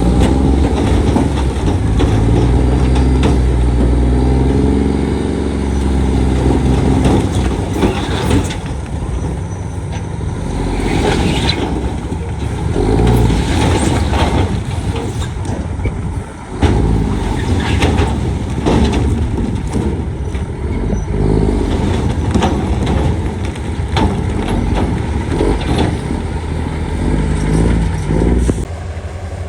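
Heavy diesel earthmoving machinery at work: a low engine drone whose revs shift in the first few seconds, then many sharp clanks and knocks of steel and rock.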